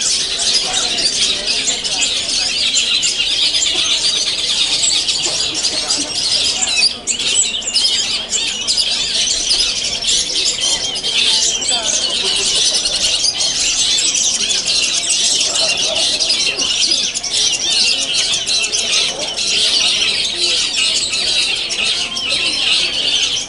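Many caged contest songbirds singing at once: a dense, continuous chorus of rapid chirps, trills and squeaky call notes.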